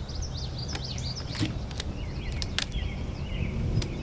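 Small birds chirping in short rapid phrases over a steady low background rumble, with a few sharp clicks.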